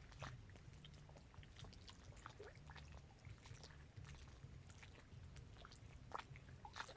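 Faint small waves lapping at the water's edge of a dam reservoir: scattered soft splashes and clicks at an uneven pace over a low steady rumble.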